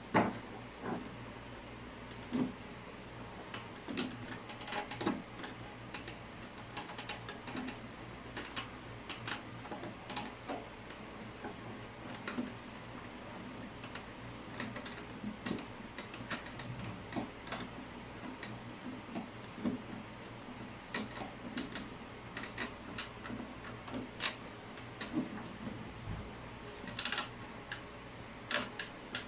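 Irregular light clicks and knocks, a few a second and uneven in spacing, over a steady low hum.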